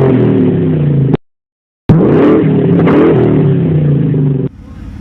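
A car's engine and exhaust being revved again and again, the pitch rising and falling with each blip. There is a short gap of silence about a second in. Near the end it cuts to a quieter, steadier engine sound.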